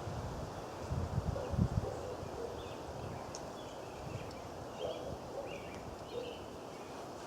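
Wind buffeting the microphone in gusts about a second in, followed by a run of short, separate bird chirps over steady outdoor hiss.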